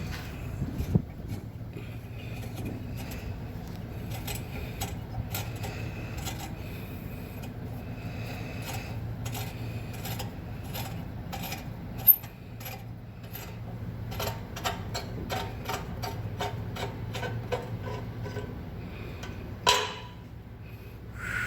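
A 5/16 UNC hand tap being turned into a hole to cut new threads, giving scattered clicks and scraping, with a few sharp knocks, over a steady low hum.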